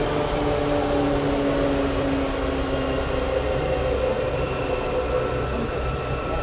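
Seibu 2000 series electric commuter train running, heard from inside the passenger car: a steady rumble of wheels on rail with a faint whine over it.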